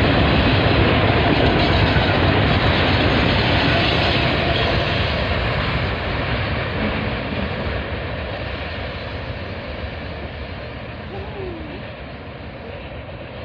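A train of Herzog hopper cars rolling along the rails with a steady rumble that fades as the train moves away.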